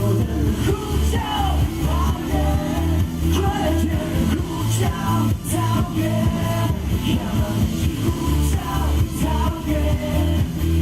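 Live band playing pop-rock, with a steady bass-and-drum beat and a voice singing over it.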